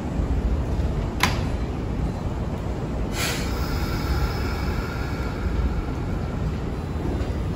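Kintetsu 1230-series and 8000-series electric train standing at a station platform, with a steady low rumble. There is a sharp click about a second in. About three seconds in comes a sudden hiss that leaves faint high tones fading over the next few seconds.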